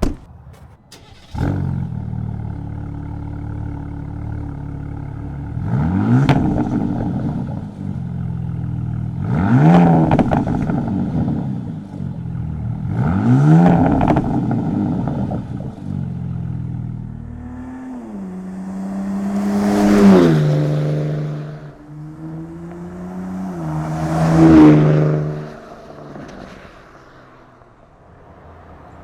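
A 2025 Ram 1500 RHO's twin-turbo inline-six, through an aftermarket T304 stainless exhaust, starts up after a short click and settles to idle. It is then revved three times, each rev rising and falling. Later it is driven hard in two accelerating pulls, its pitch stepping through the gears, and the sound fades away near the end.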